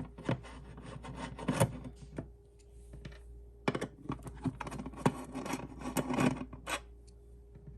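Small clicks, taps and rubbing of hard plastic parts being handled as a Wisecube Slim card-reader module is taken off the back of a Mini 4/5 iPad enclosure, with a quieter pause about two seconds in.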